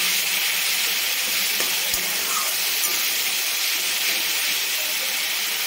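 Onion, ginger-garlic and spice masala paste sizzling steadily in hot oil in a wok while a spatula stirs it.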